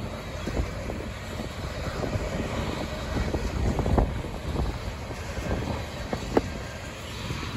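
Freight train's covered hopper cars rolling past: a steady rumble of steel wheels on rail with rapid clicks and clanks. The loudest clank comes about four seconds in, and another sharp one a couple of seconds later.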